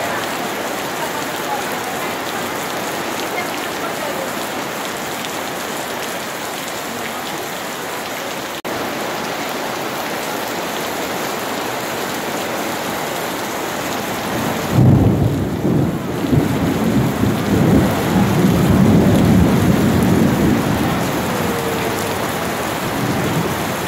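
Steady rain falling on stone paving and outdoor tables. About two-thirds of the way through, a loud low rumble of thunder breaks in and rolls on for about six seconds before fading back under the rain.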